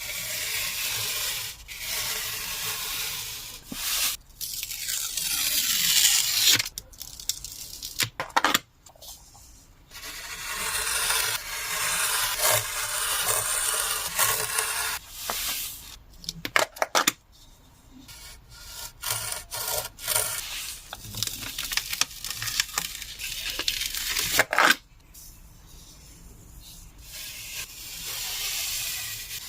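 Coloured sand rustling and scraping as it is worked over a sticky sand-art board by hand, in stretches of a few seconds broken by clicks and short pauses.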